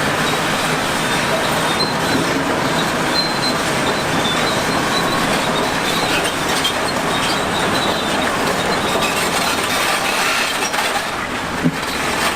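Heavy earthmoving machinery working, a steady grinding, clanking din with faint high metallic squeals, like crawler tracks or stone moving against steel.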